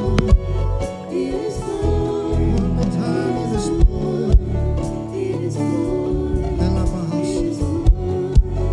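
Live worship music: sustained keyboard chords with a voice singing over them, and a few sharp hits.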